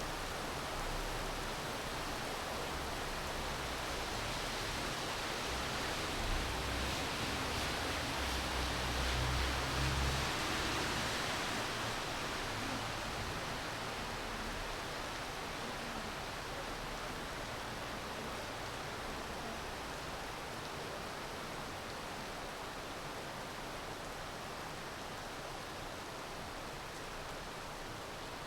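Steady rain falling, a dense even hiss. It swells a little between about six and eleven seconds, with a low rumble under it.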